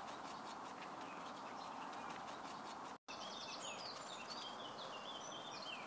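Quiet steady outdoor background noise with a brief dead drop about halfway through. After it, a small bird sings a run of short chirping notes that step down in pitch.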